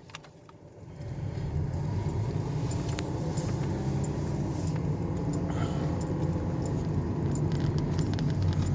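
Steady low rumble of a car in motion, heard from inside the cabin, building up about a second in. Faint light clicks and jingles run over it.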